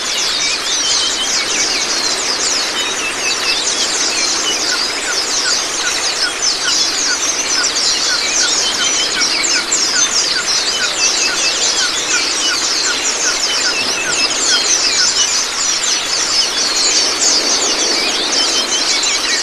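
Small songbirds chirping in a dense, rapid, high-pitched chatter over the steady rush of running water, a water-therapy and birdsong training track for white-eyes. A series of short, lower repeated notes runs through the middle.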